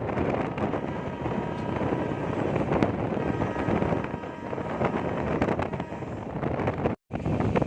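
Passenger train running at speed, heard from on board: a steady rumble of wheels on the rails with wind buffeting the microphone. The sound cuts out for a split second about seven seconds in.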